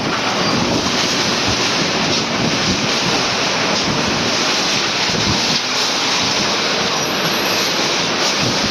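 Storm wind blowing hard in a steady, loud rush, buffeting the microphone.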